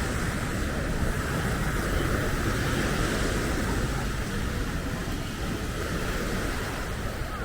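Steady outdoor ambience: wind buffeting the microphone over the continuous wash of surf.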